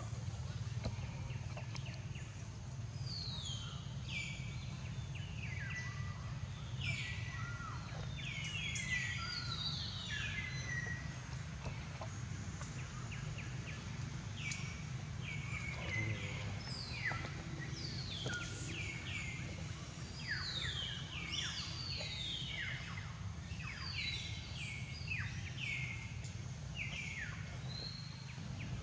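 Many birds calling in the background: short whistles that fall in pitch, repeated and overlapping, over a steady low rumble.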